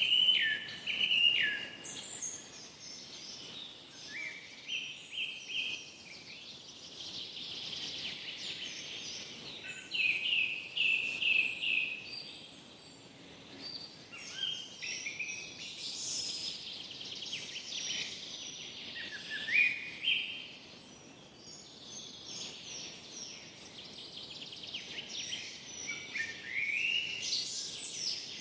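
Forest birdsong: several birds singing short, repeated chirping phrases, one after another and overlapping, over a faint steady background hiss.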